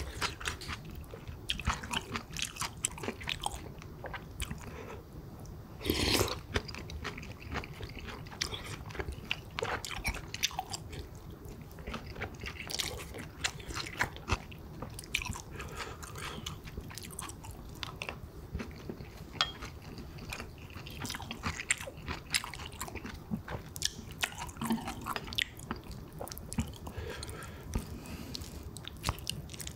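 Close-miked chewing of pork kimchi stew and rice, full of small wet mouth clicks, with one louder noise about six seconds in.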